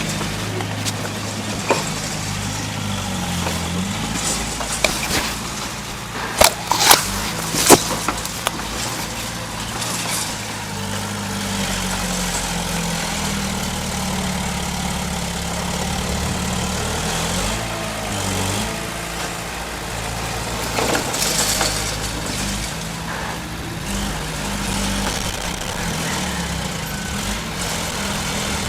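Heavy earth-moving machine's engine running steadily, its pitch shifting up and down as it works under changing load. A few sharp clanks come about six to eight seconds in.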